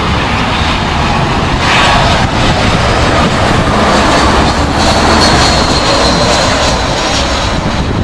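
Jet airliner passing close by with its engines running, a steady rushing noise with a thin high whine about five seconds in, over wind buffeting the microphone.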